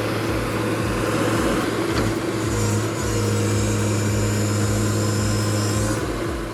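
Heavy vehicle engine running at a steady speed, a constant low hum with no change in pitch.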